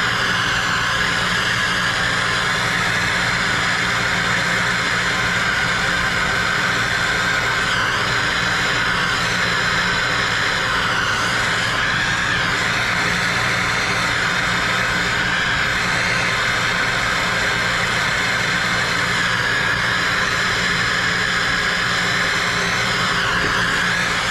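Plumber's soldering torch burning steadily, heating a pipe adapter fitting as it is soldered.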